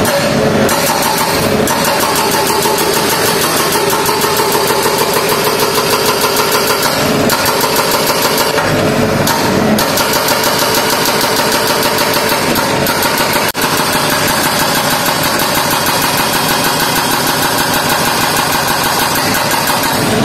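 Heavy road-works machine's engine running steadily and loudly, with a brief dip about thirteen seconds in.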